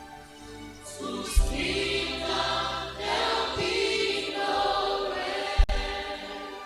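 A congregation sings a worship chorus over instrumental backing with steady low bass notes. Two sharp low thumps come about a second and a half in and again near the end.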